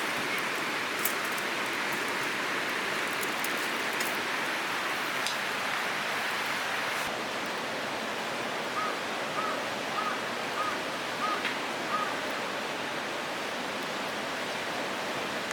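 Steady rush of running water, with a few faint clicks in the first seconds and a short run of six high chirps from about nine to twelve seconds in.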